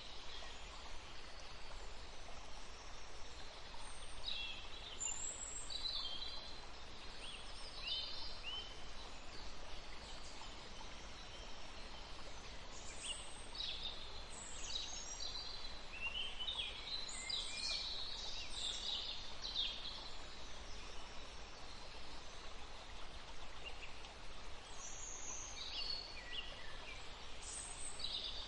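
Forest birdsong: several small birds chirping and calling in short high phrases over a steady background hiss. The calls come thickest around the middle.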